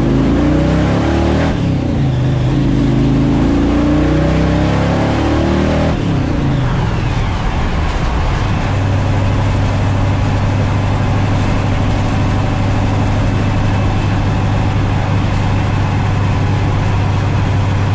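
Supercharged car engine (Weiand roots blower fed by twin Edelbrock AVS2 carburetors) accelerating, its pitch rising for the first several seconds, then dropping back and settling into a steady cruise from about halfway through.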